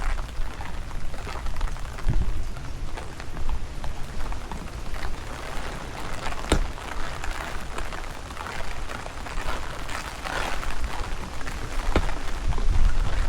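Steady rain falling on pavement and surfaces, with a few sharp drop impacts and a low rumble of wind buffeting the microphone.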